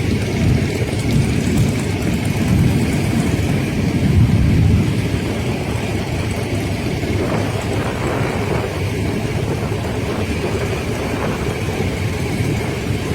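Motorcycle engines running with a low, steady rumble, swelling a little about four seconds in.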